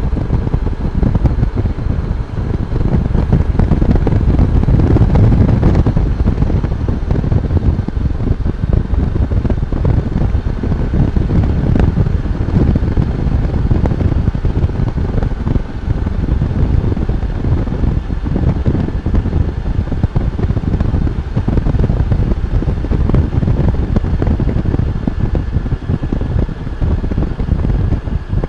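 Wind noise buffeting the microphone while riding a Honda Goldwing motorcycle at road speed, with the motorcycle running beneath it.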